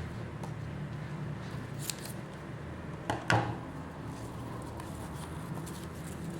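Handling of packing materials: a few short crisp snips or rustles, the loudest about three seconds in, over a steady hiss of rain.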